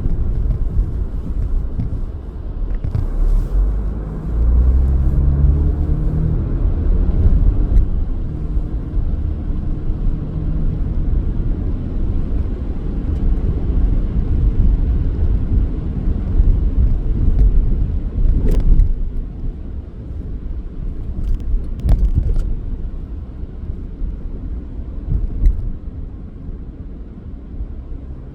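Car driving: a steady low rumble of road and engine noise, with the engine's pitch rising as it accelerates a few seconds in. Two sharp knocks come about three and a half seconds apart past the middle.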